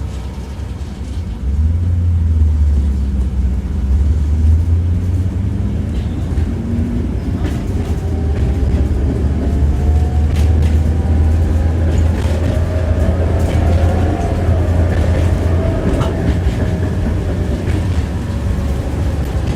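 Tram heard from inside the car while under way: a steady low rumble with sharp clicks and the ringing clatter of the wheels on the rails. The rumble grows louder about a second and a half in, and a faint whine rises and then falls in the middle.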